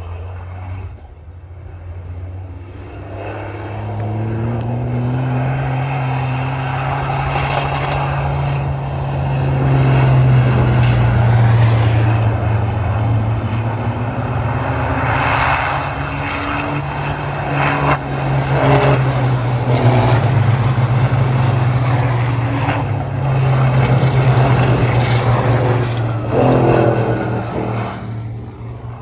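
Racing trucks' big turbocharged diesel engines running flat out as they pass along the circuit, a deep steady drone that swells twice in loudness and eases off near the end.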